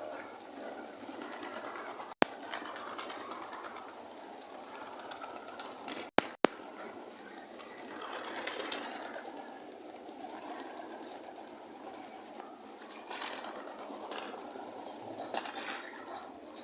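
Racing pigeons cooing at the loft, a steady murmur of several birds, with a few sharp clicks about two and six seconds in and short noisy bursts near the end.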